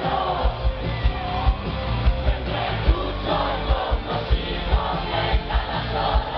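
Live rock band playing with a steady kick-drum beat, heard from within a loud concert crowd that sings along.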